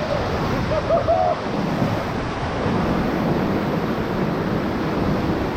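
Ocoee River whitewater rushing steadily around the raft, with a brief wavering voice-like call about a second in.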